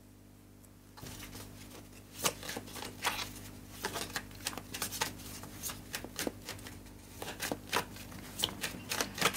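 A deck of tarot cards being shuffled by hand: a quick, irregular run of card flicks and slaps that starts about a second in.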